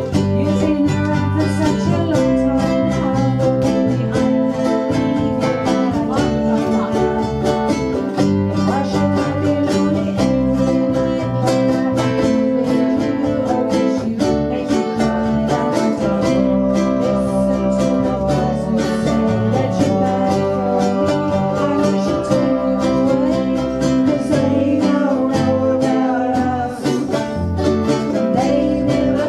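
Ukuleles strummed together in a steady rhythm, playing a song live.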